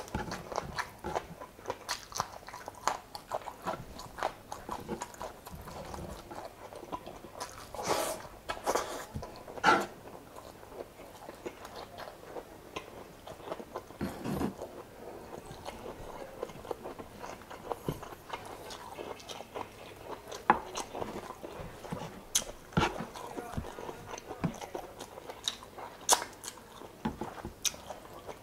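A person chewing and biting close to the microphone while eating chicken adobo and rice: irregular wet smacks and clicks, with a few sharper, louder clicks here and there.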